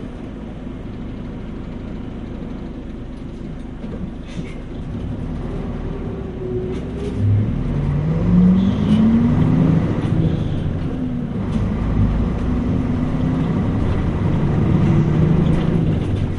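Mitsubishi Fuso Aero Star K (U-MP218M) city bus diesel engine heard inside the bus. It runs low and steady for the first several seconds, then revs up about seven seconds in as the bus accelerates, its pitch rising, dropping at a gear change and rising again.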